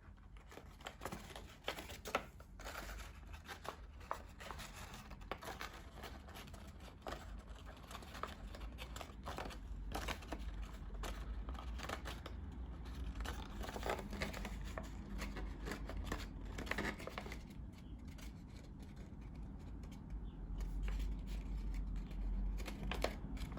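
Paper being handled and worked by hand during assembly of a paper car model: irregular rustling, crinkling and small clicks of printed paper being folded, pressed and fitted together.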